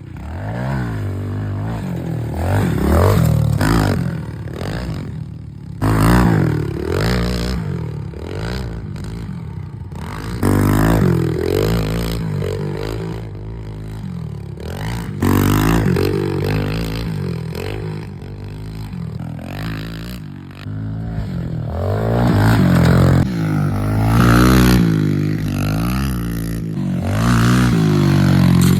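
Dirt bike engines revving up and down as the bikes ride, with the pitch rising and falling repeatedly. The sound changes abruptly every few seconds.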